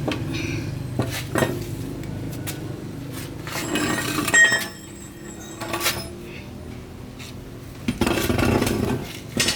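Metal tools and parts clinking and knocking together in irregular handling sounds, with a ringing metallic clink about four seconds in and a rougher scraping stretch near the end.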